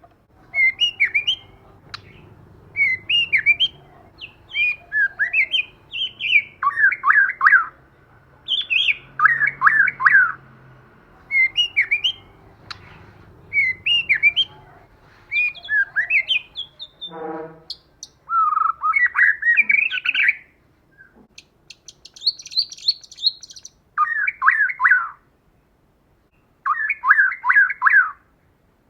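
White-rumped shama calling in repeated short bursts of quick, chattering notes, a cluster every second or two, with a higher, buzzier phrase about three-quarters of the way through.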